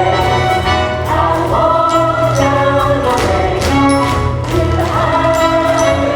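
A chorus of voices singing together with instrumental accompaniment: an ensemble number in a stage musical.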